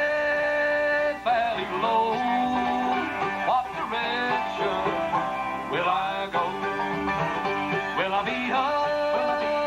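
Bluegrass band playing an instrumental break, with banjo, mandolin, guitar and upright bass fiddle picking together and no singing.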